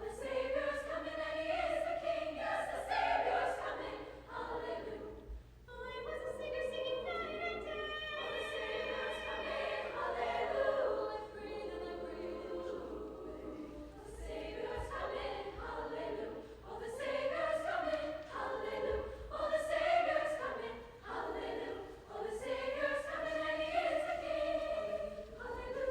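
A high school choir singing in phrases, with short breaks between them.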